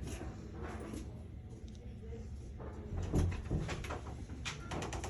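A series of light knocks and clicks over low thuds, closer together from about three seconds in.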